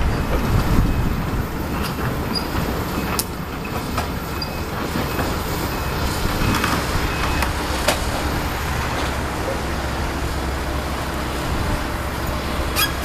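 Excavator's diesel engine running steadily during a house demolition, with scattered knocks and crunches of debris, the loudest about a second in.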